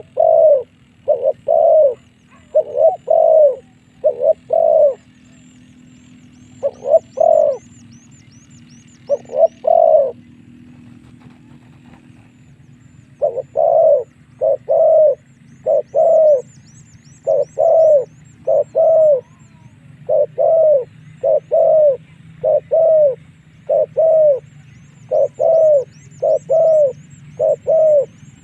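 Spotted dove cooing a lure call: repeated groups of short coos, with a pause of a few seconds near the middle. Faint runs of quick, high, falling chirps from a smaller bird sound behind it.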